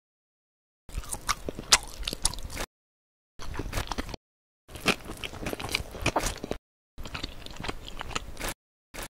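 Crunchy, close-miked mukbang-style chewing and biting sounds, dubbed for the slime character eating. They come in four separate stretches of a second or two, each cut off sharply into dead silence, then short blips near the end.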